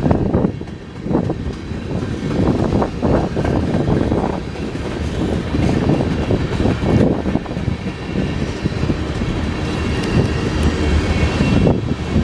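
Train rolling past: railroad cars rumbling steadily, with repeated clatter of wheels on the rails.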